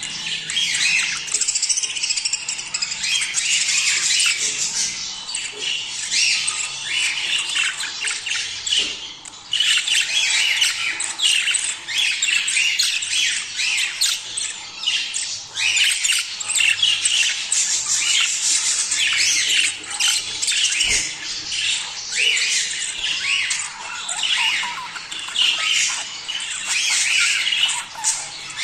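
A flock of budgerigars chattering, warbling and squawking without pause, many birds calling over one another. This is budgie mating chatter.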